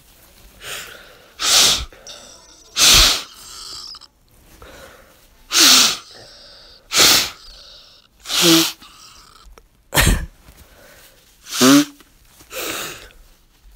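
A person blowing their nose hard, about nine short forceful blasts of air through the nostrils a second or so apart. A few of the blasts end in a brief squeaky tone, the funny noise the nose makes with each blow.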